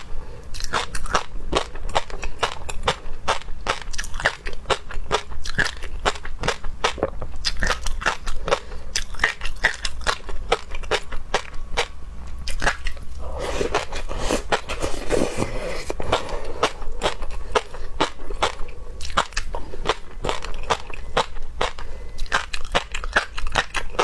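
A person chewing and biting into seafood, with many quick crunches and clicks. A little past halfway comes a few seconds of denser, noisier chewing.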